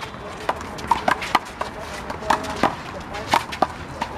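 Sharp slaps of a rubber one-wall handball (the big blue ball) being struck by hand and smacking the wall in a rally, several hits a second at an uneven pace.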